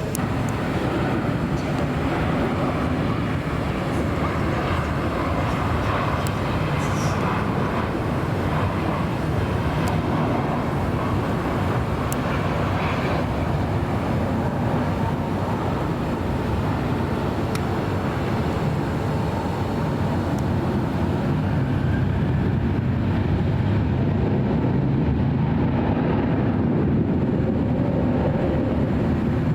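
Jet airliner engines making a steady rumbling roar, swelling slightly near the end.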